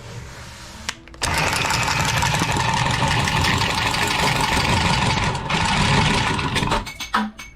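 Battery-powered tubing cutter running for about five and a half seconds as it cuts through copper water pipe, starting abruptly about a second in and stopping near the end, followed by a few clicks.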